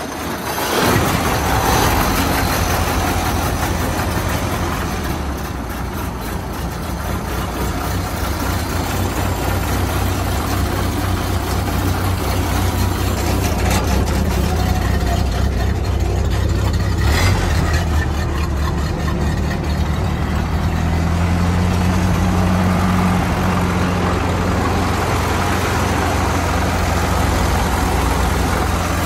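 Vintage Ford car engine idling steadily.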